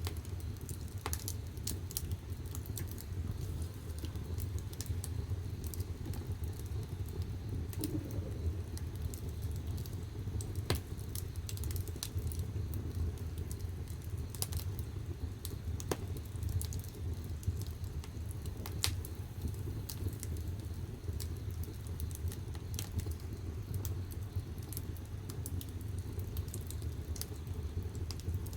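Firewood burning in the firebox of a wood-fired bath heater: a steady low rumble from the fire, with scattered sharp crackles and pops from the burning wood.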